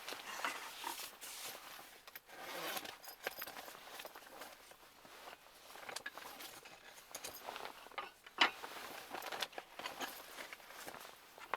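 Irregular rustling, scraping and small clicks of objects being handled, with one sharper knock about eight seconds in.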